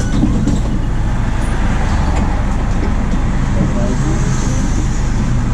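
The MAN D0834 four-cylinder diesel of a VW 17.230 OD bus running steadily under way, a constant low hum with road noise.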